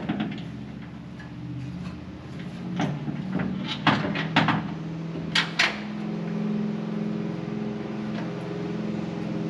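Sharp metal clicks and clinks as seat-mount bolts and nuts are handled and fitted by hand, about half a dozen, mostly in the middle. Under them runs a steady hum that gets stronger after the midpoint.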